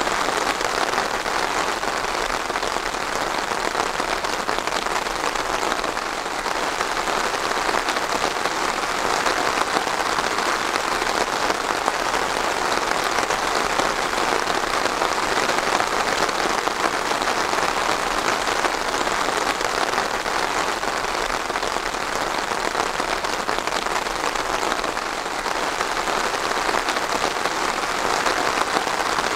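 Steady rain falling on a hard surface: a dense, even hiss of drops with no breaks.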